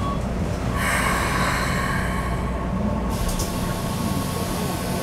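Keikyu New 1000 series electric train standing at a platform with its equipment humming steadily. About a second in, a hiss of compressed air starts and lasts about two seconds.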